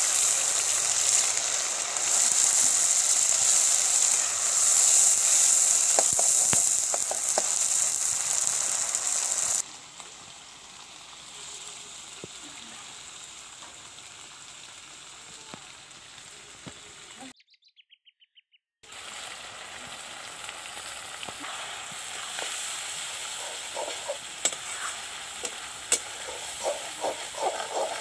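Onions and a cumin, mustard, garlic and red chilli paste sizzling loudly in hot oil in an iron kadai for about the first ten seconds. After a quieter stretch and a brief silence the sizzling returns, with a metal spatula scraping and stirring the pan in quick strokes near the end.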